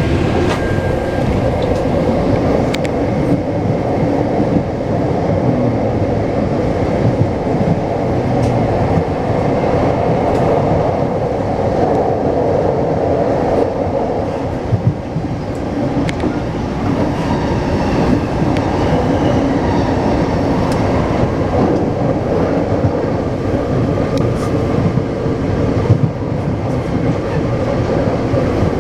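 Taipei Metro C381 electric train running at speed: a steady rumble of wheels on rail, with occasional clicks.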